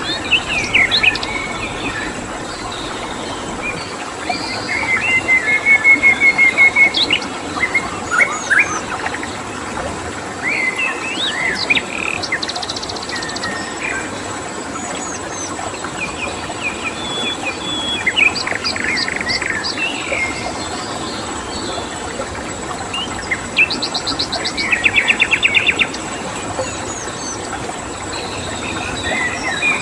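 Several wild songbirds chirping, whistling and giving rapid trills over a steady stream-like rush, with a constant high thin cricket tone.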